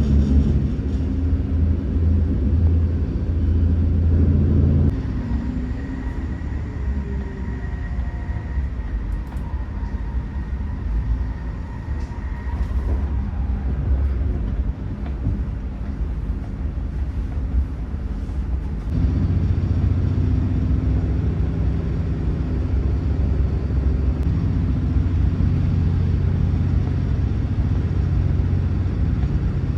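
Passenger train running, a steady low rumble and hum. It drops abruptly about five seconds in and returns just as suddenly about nineteen seconds in.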